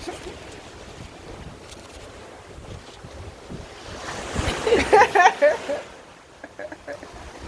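Ocean surf washing on a rocky shore, with wind buffeting the phone's microphone. About four seconds in comes a brief, loud run of short, pitched, voice-like calls lasting over a second.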